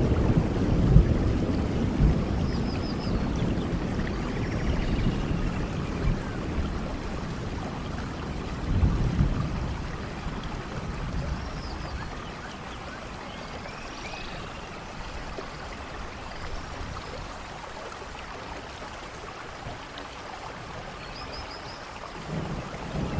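Steady rain in a rainforest with thunder rumbling: a deep rumble dies away over the first several seconds, a second rumble comes about nine seconds in, and thunder builds again near the end. A few faint high chirping calls sound through the rain.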